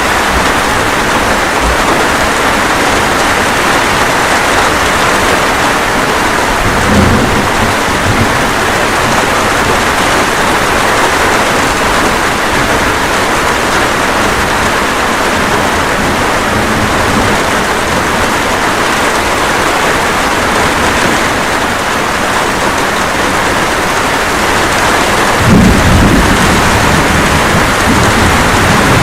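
Steady light rain with thunder: a brief low rumble about seven seconds in, and a louder, longer rumble of thunder starting near the end.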